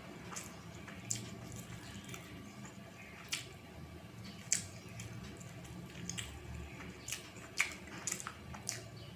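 Close-miked wet eating sounds: chewing with irregular sharp clicks and smacks, a few louder snaps, over a low steady hum.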